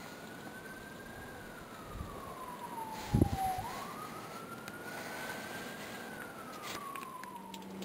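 Emergency vehicle siren on a slow wail, its pitch climbing and falling in long sweeps of a few seconds each. There is a short low thump about three seconds in.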